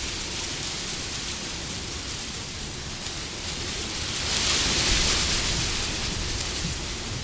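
Wind blowing, a steady rushing hiss that swells into a stronger gust about four seconds in and eases off again.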